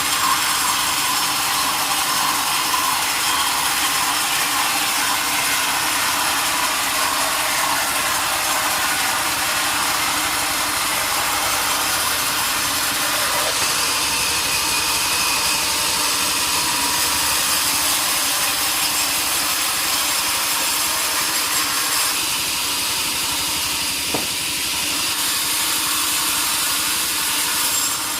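Sawmill saw cutting steadily through a large log, a continuous hissing rasp of the blade in the wood.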